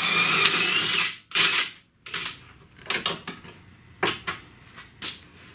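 A power tool runs in a short burst of about a second, its motor whine rising slightly, then again briefly. After that come several sharp metallic clicks and knocks of sockets and tools being handled.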